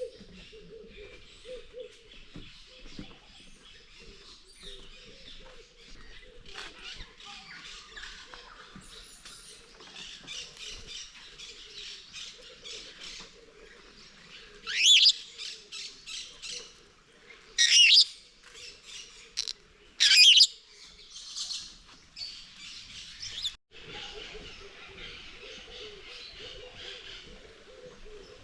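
A chorus of aviary birds chirping and calling continuously. About halfway through come three much louder calls, each sweeping in pitch, a couple of seconds apart.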